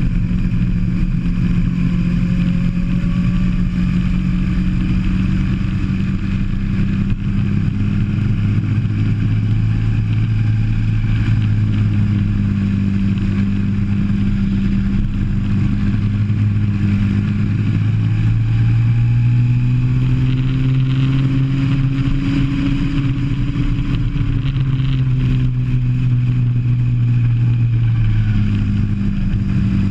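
Go-kart engine heard onboard, running continuously under load, its pitch rising as the kart speeds up along straights and dropping as it slows for corners.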